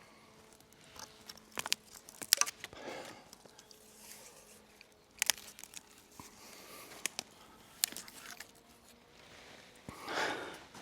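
Handling noises while rigging a hammock line with cord: scattered sharp clicks and crackles with light rustling, then a heavy breath near the end.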